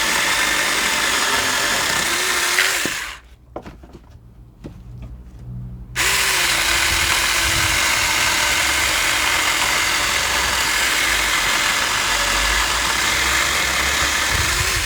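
Saker 4-inch battery-powered mini chainsaw running under load as it cuts through wood, with a steady high whine over the chain noise. It stops about three seconds in, leaving only a few faint knocks, then starts again about three seconds later and keeps cutting.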